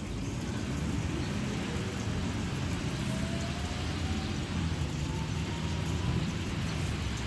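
Steady rain during a thunderstorm, with a low rumble underneath. A faint tone rises slowly in pitch through the middle.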